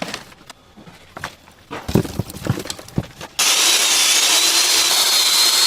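A few irregular knocks, then hot frying oil sizzling loudly and evenly from about halfway through, as chicken deep-fries.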